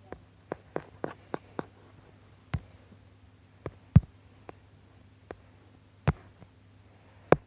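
Irregular light taps and clicks, with three heavier thumping taps about four seconds in, about six seconds in and near the end, over a steady low electrical hum.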